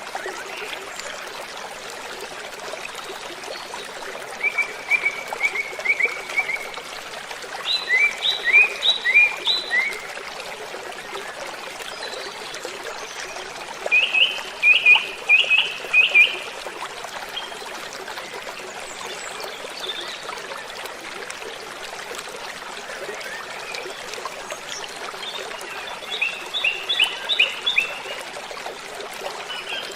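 Waterfall running steadily as an even rush of water, with a songbird singing four short phrases of quick repeated chirping notes over it.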